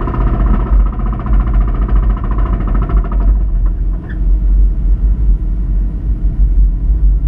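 Subaru Impreza 2.5RS's flat-four engine with a failed rod bearing, running over a heavy low rumble of the moving car; the engine note fades out about three seconds in, leaving mostly the rumble.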